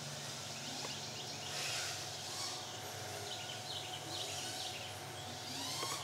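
Outdoor ambience: birds chirping in short rising and falling calls over a steady low hum, with a few soft hissy swells.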